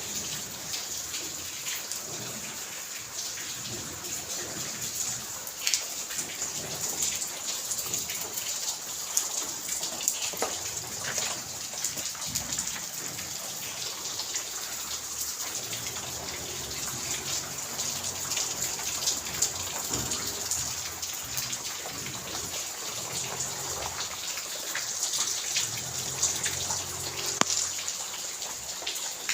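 Steady rain, with many individual drops ticking sharply on nearby surfaces.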